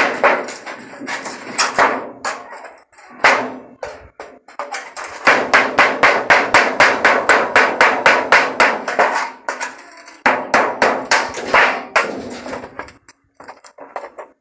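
A piece of wood striking the back of a knife to drive it through zinc sheet metal, cutting it. Quick strikes about five a second, in runs with short pauses.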